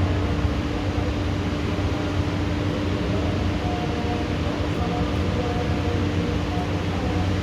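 Steady thunderstorm rain, an even hiss, with a low steady hum running under it.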